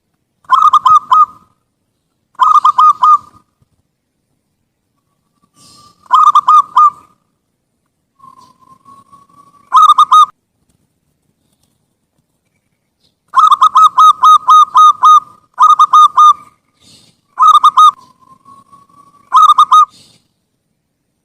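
Zebra dove (perkutut) cooing: loud phrases of rapid stuttering notes, repeated about eight times with short pauses, and a soft rising coo between some phrases.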